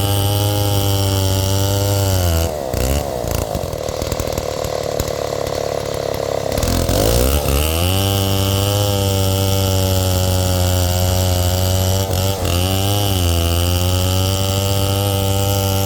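Freshly rebuilt '707' large chainsaw running steadily; about two and a half seconds in it dips, then cuts into wood with a rougher, higher sound for about four seconds before settling back to a steady run. About twelve seconds in its pitch briefly dips and rises again.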